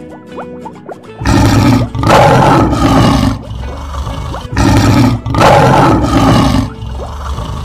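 Lion roar sound effect, played twice: two long roars of about two seconds each, with light plucked music before the first.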